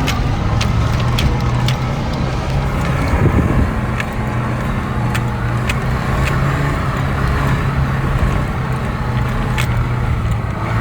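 Mitsubishi L200 pickup's engine running steadily while driving through deep frozen snow, with a short surge about three seconds in. Scattered sharp clicks sound over it.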